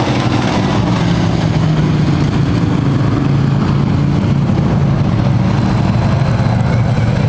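A field of dirt-track racing trucks running laps together, with engines revving and droning in a steady, loud mix.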